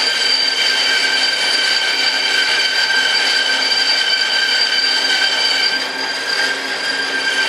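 Shop power tool running with a steady high whine, with a brief drop in level about six seconds in.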